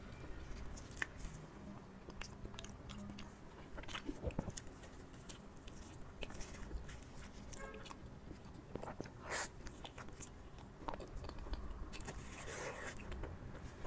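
Close-miked eating sounds: biting and chewing a soft, chilled durian pastry, with scattered wet smacks and clicks of the mouth.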